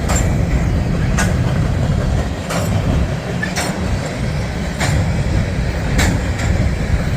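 Norfolk Southern freight train of hopper cars rolling past: a steady heavy rumble, with sharp wheel clacks over the rail joints about once a second.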